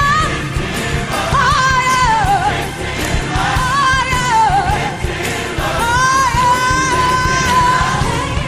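Gospel choir singing over instrumental backing, with a long held note near the end.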